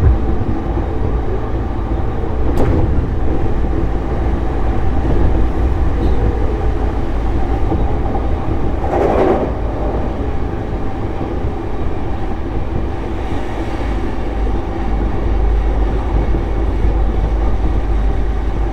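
JR East E233-series electric train running between stations, heard on board: a steady rumble of wheels on rail with faint steady motor tones, a sharp click about two and a half seconds in and a brief rush of noise about nine seconds in.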